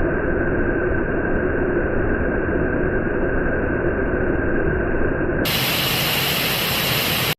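Waterfall pouring: a steady rushing of falling water that stops abruptly near the end.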